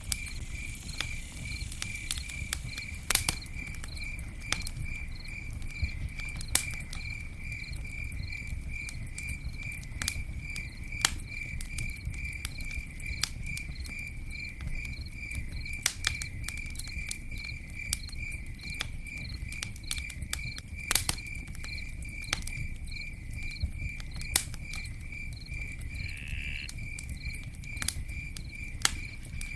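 Campfire crackling, with scattered sharp pops over a low rumble, while a cricket chirps steadily in an even rhythm of about two or three chirps a second.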